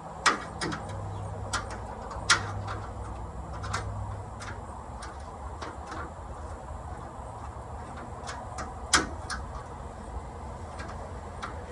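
Scattered sharp clicks and knocks of hand tools working on parts under a tractor's hood during reassembly. The loudest come about a quarter second, two seconds and nine seconds in, with a low hum for a few seconds near the start.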